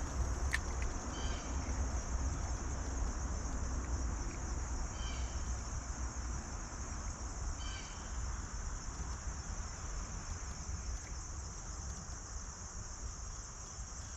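Steady high-pitched insect chorus over a low rumble, with three short chirps spread through the first half.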